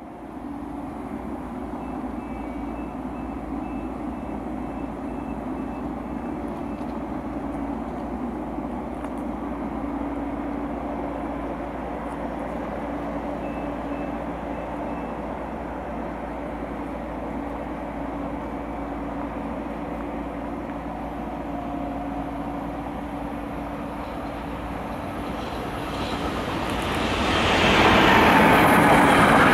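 Freight train of car-carrier wagons on an electrified line: a steady distant rumble and hum as it approaches, growing sharply louder about 26 seconds in as the train reaches and passes close by, its wagons rolling past.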